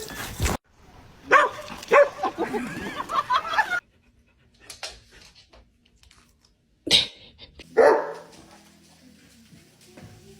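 A dog barking in two bouts: a run of barks starting about a second in, and more barks around seven seconds in.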